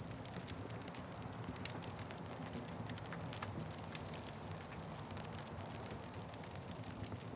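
Wood fire crackling: frequent irregular sharp snaps and pops over a steady low rumble.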